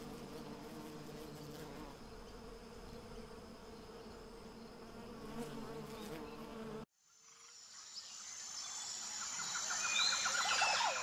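A bee buzzing steadily with a low hum, which cuts off about seven seconds in. After a moment's quiet, a high steady trill and repeated bird chirps and rattling calls rise in and grow louder toward the end.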